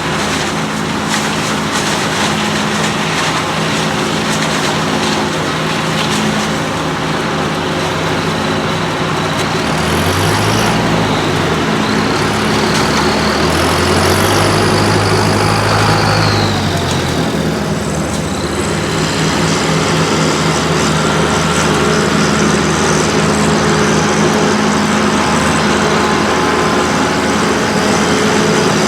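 Farm tractor engines running steadily during forage harvesting, with a second, deeper engine coming up louder between about ten and seventeen seconds in, together with a high whine, before fading again.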